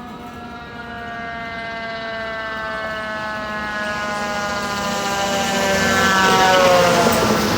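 Fire truck siren sounding as the truck approaches, growing steadily louder. Its pitch drops as the truck passes near the end, with a rush of engine and road noise.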